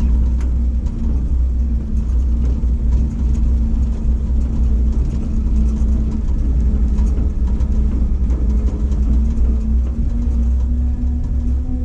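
Ford F700 truck's 370 four-barrel gasoline V8 running under way, a steady low rumble with a hum that rises slightly in pitch near the end, over light rattles.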